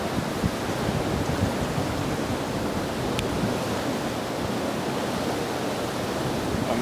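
Steady rush of the flooded, fast-flowing Mohawk River, running about 14 feet above normal, mixed with wind noise on the microphone.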